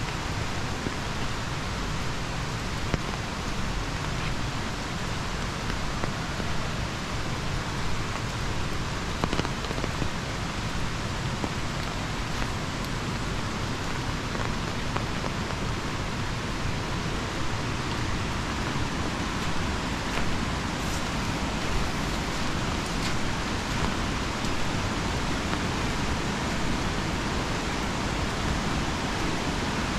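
Steady, even rush of falling water with no breaks.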